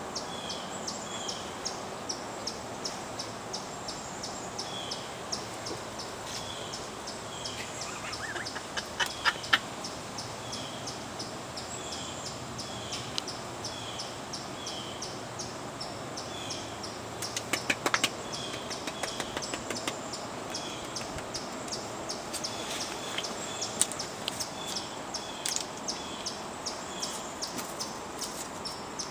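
Birds chirping outdoors: a short high call repeating every second or so over a fast, even high ticking. Twice, about a third and about two thirds of the way through, a brief cluster of sharp clicks stands out as the loudest sound.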